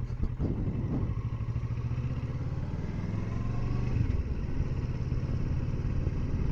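Kawasaki Versys 650's parallel-twin engine running steadily while the motorcycle is ridden along.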